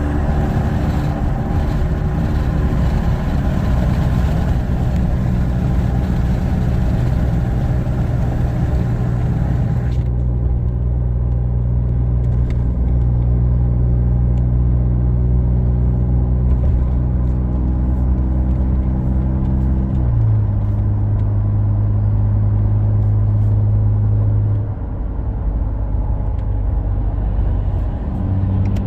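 In-cab drone of a 2018 Ford F-150's 3.5 EcoBoost twin-turbo V6 through an AWE 0FG exhaust with a Borla resonator, holding a steady tone while cruising under light load near 2,000 RPM. About two-thirds of the way through, the tone steps down to a lower pitch as the revs drop.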